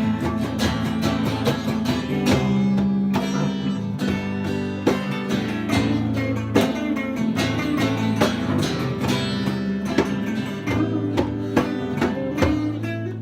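A band playing an instrumental passage between sung lines, led by guitar over sustained bass notes and a steady beat.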